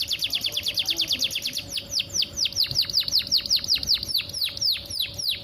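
Female canary calling to males, as a hen in breeding condition does: a run of quick chirps, each sweeping steeply down in pitch, rapid at first and slowing to about three a second.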